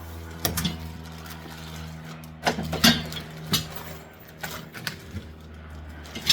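Steady low droning of a plane passing overhead, with a series of clinks and rustles as boxes of metal truck side-rail brackets and hardware are opened and handled, the loudest a little after two seconds in and again at the end.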